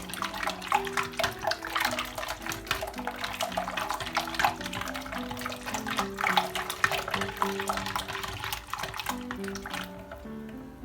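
A liquid cake batter of oil, juice and yogurt being whisked in a bowl: rapid irregular clinks and wet splashing that stop near the end, over background music.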